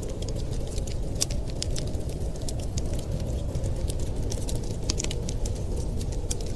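Wood fire crackling: frequent irregular pops and snaps over a steady low rumble.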